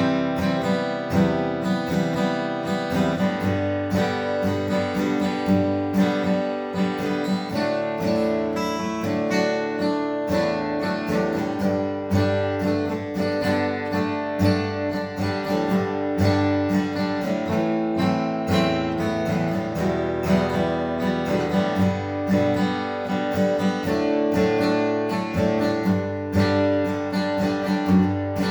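Martin D-28 Reimagined steel-string dreadnought acoustic guitar, rosewood back and sides, strummed in simple chords with a steady rhythm of several strokes a second.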